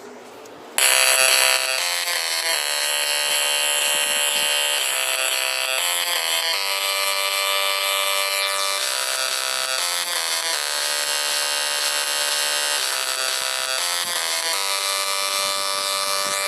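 A steady electric-sounding buzzing drone with many overtones, starting abruptly about a second in.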